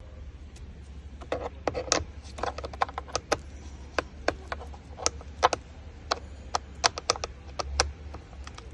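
Irregular light clicks and taps from a screwdriver and plastic trim pieces being handled while screws are worked loose from a steering-wheel switch assembly, over a faint steady low hum.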